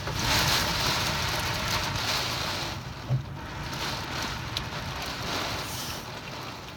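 Heavy typhoon rain and gusting wind, a dense steady hiss that swells at the start, with wind buffeting the microphone. A brief low thump about three seconds in.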